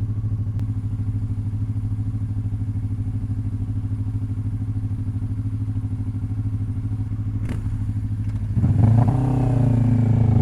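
Motorcycle engine, likely the rider's Kawasaki Ninja 400 parallel twin, running steadily at cruising speed, then revving up with rising pitch as it accelerates near the end.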